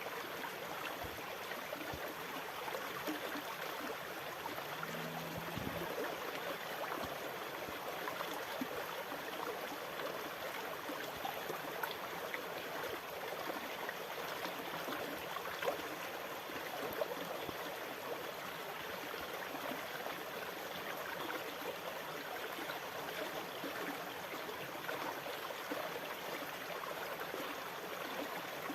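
Water running steadily: an even, continuous rush with no rise and fall of breaking waves.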